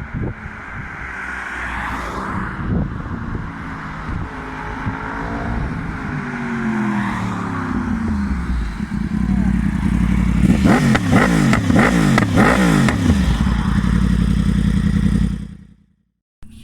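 Yamaha R1 (2015) crossplane inline-four sportbike engine running, getting steadily louder as it approaches, then revving hard with quick repeated rises and falls in pitch while loudest. The sound cuts off suddenly just before the end.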